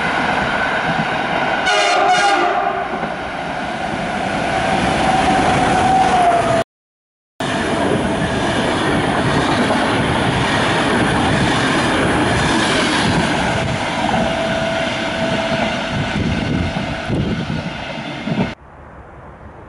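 EU44 Husarz electric locomotive and its express coaches passing through the station at speed, with loud wheel and rail noise and clatter throughout. A long steady tone sounds from about two seconds in to about six seconds in, and again more faintly later. The sound cuts out briefly near seven seconds in and drops off sharply near the end.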